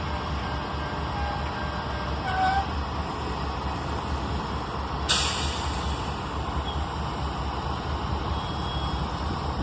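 CSX freight train's diesel locomotives rumbling steadily as the train creeps along at low speed, with a few faint short squeals early on and a sharp burst of air hiss about five seconds in, typical of the air brakes.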